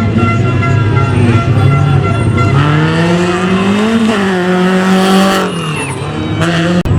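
Rally car on a gravel special stage: from about two and a half seconds in, its engine rises in pitch as it accelerates and holds high, then eases off, with a burst of hiss around five seconds in.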